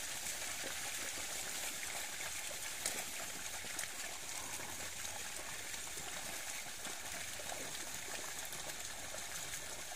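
Steady splashing and sloshing of shallow, muddy water as a herd of swamp buffalo wade through it, with faint scattered splashes from their legs.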